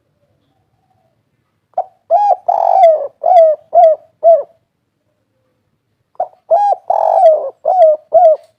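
Spotted dove (derkuku) cooing two song phrases of the 'kuk 3' type: a short opening note, a longer rolling coo, then three short 'kuk' notes, the second phrase starting about two seconds after the first ends.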